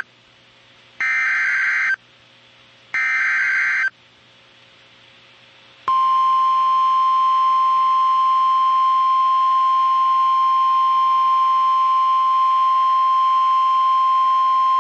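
NOAA Weather Radio emergency alert signal. First come two one-second bursts of warbling SAME digital header data, about two seconds apart. Then the steady 1050 Hz warning alarm tone sounds for about nine seconds and cuts off abruptly. Together they mark the start of a new severe thunderstorm warning broadcast.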